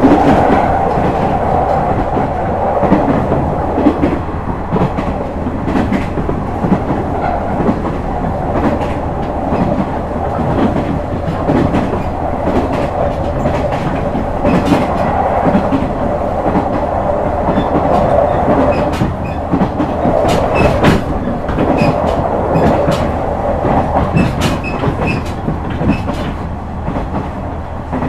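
JR West KiHa 126 diesel railcar running at speed, heard from inside the car: a steady engine and running hum with sharp clicks of the wheels over rail joints, coming more often in the second half.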